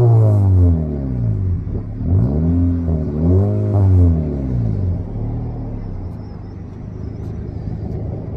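Exhaust of a 2019 Honda Civic Sport with its muffler deleted and piped straight, free-revving. A rev falls back over the first second and a half, then come two quick revs about a second apart, and then it settles to idle.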